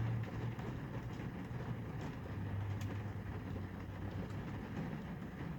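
Steady low rumble of a running vehicle, with a few faint ticks scattered through it.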